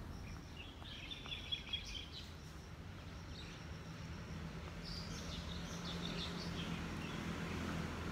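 Outdoor ambience: birds chirping in short spells, about a second in and again from about five seconds in, over a steady low background hum, with two short ticks about a second and a half in.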